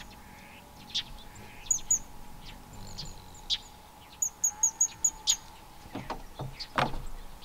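Small wild birds chirping and calling. Short high chirps come in a quick run of about five a little past four seconds in, with several sharp down-slurred calls between them.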